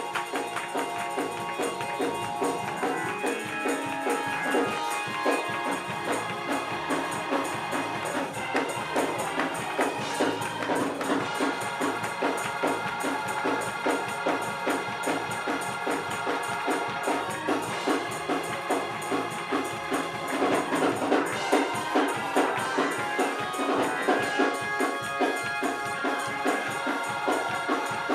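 Gospel praise music: organ with drums and tambourine playing a fast, steady beat.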